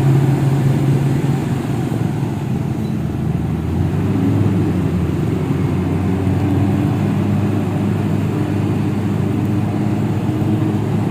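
Concrete mixer truck's diesel engine running steadily, its note shifting lower about three seconds in.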